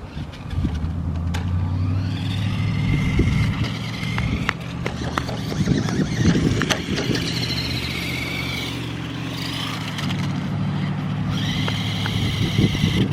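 Remote-control truck driving, its motor whine rising and falling in pitch as it speeds up and slows, over a steady low hum, with scattered sharp knocks.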